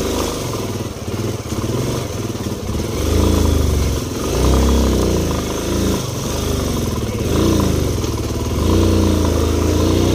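Yamaha trail motorcycle engine under way at low speed, revving up and falling back several times as the throttle is opened and closed over a rough, rocky dirt track.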